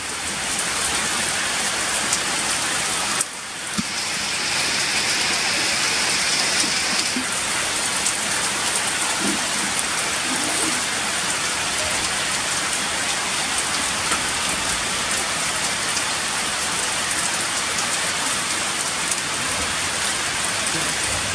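Heavy rain pouring steadily, a dense, even hiss that cuts out briefly about three seconds in.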